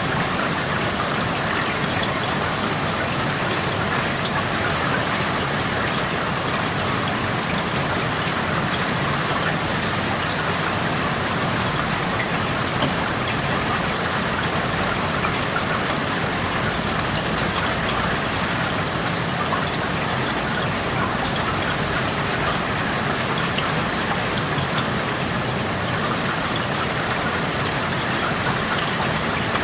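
Steady rain through an open window, a dense even hiss of falling rain with many small drops pattering on surfaces.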